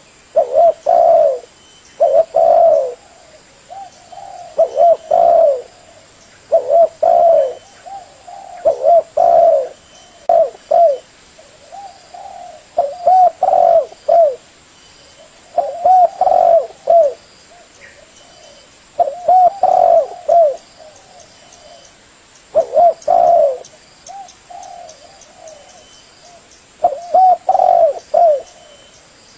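Spotted dove cooing over and over in short phrases of several low coo notes, a new phrase every two to three seconds.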